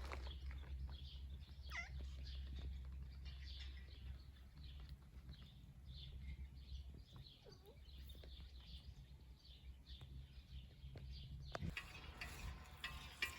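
Small birds chirping and singing, many short high calls, faint over a low steady rumble. Near the end a sharp click, then rustling.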